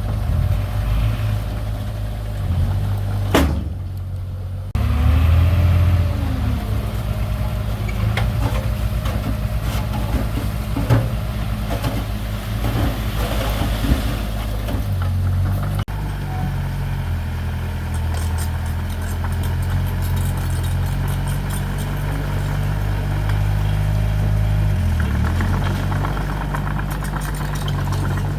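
Heavy diesel engines of earthmoving machines running, their low note rising and falling as the machines work, with a few sharp knocks.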